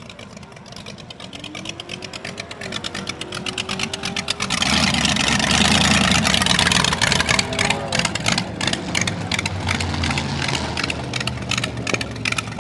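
Supercharged flathead engine of a drag roadster running at low speed, its rapid firing pulses growing louder as it approaches, then jumping sharply louder about five seconds in as it comes alongside and running on loud and uneven at a lumpy idle.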